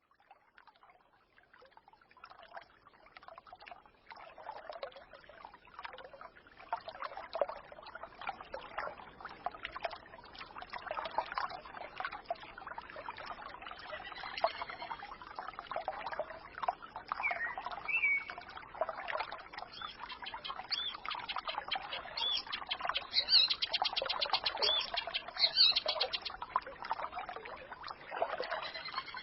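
Small forest stream babbling and trickling, fading in over the first several seconds, with birds chirping now and then above the water and one bird giving a fast trill of repeated notes past the middle.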